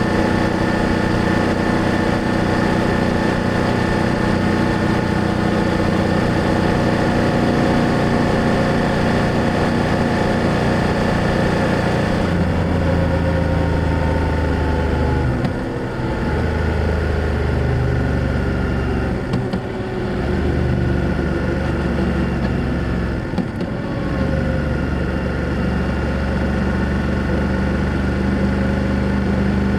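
BMW F800GS parallel-twin motorcycle engine with its exhaust running steadily under way; about halfway through the throttle closes and the note falls, followed by three brief breaks in the sound as gears change before it settles again.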